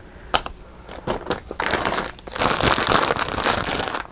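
Crafting supplies being handled and rummaged: a couple of light clicks near the start, then dense crinkling and rustling from about a second and a half in.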